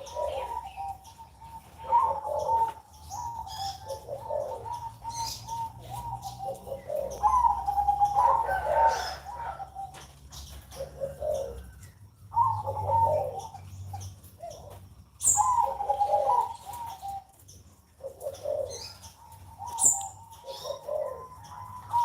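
Zebra doves (perkutut) cooing: their repeated phrases of soft notes come one after another, with a few short high chirps from small birds.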